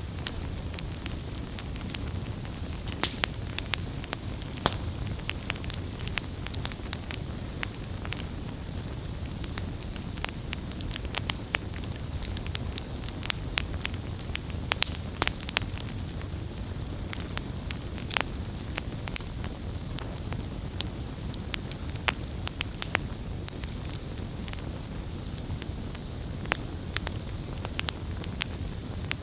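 Campfire crackling, with frequent irregular sharp pops and snaps over a steady low rush of the flames.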